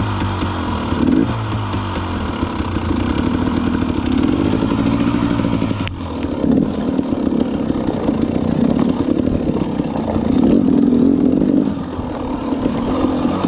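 Two-stroke dirt bike engine revving up and down again and again under throttle, its pitch rising and falling in repeated sweeps; the sound turns more muffled about six seconds in.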